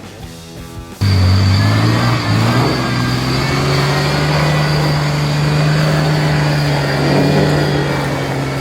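Four-wheel drive's engine running hard under load, coming in suddenly about a second in, its revs climbing over the next few seconds and then holding steady.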